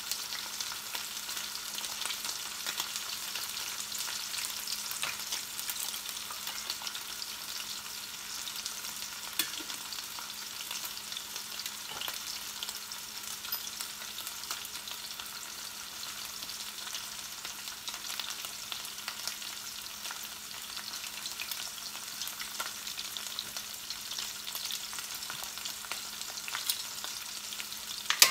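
Coated beef strips frying in olive oil in a stainless steel pan: a steady sizzle with fine crackling. A few sharp clicks of metal tongs against the pan as the strips are turned.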